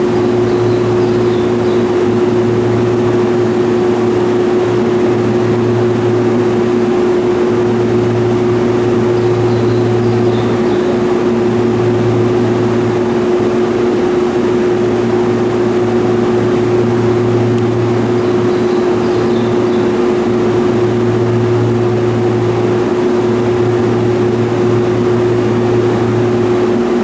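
Electric train standing at a station platform, its onboard equipment giving a steady electrical hum. A deeper hum under it cuts in and out every few seconds.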